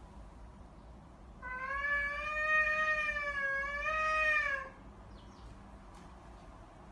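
A cat gives one long, drawn-out yowl of about three seconds, starting about a second and a half in, its pitch wavering slightly up and down.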